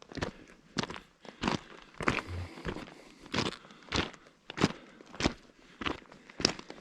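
Footsteps crunching on coarse crushed-rock railroad ballast, one step roughly every 0.6 seconds.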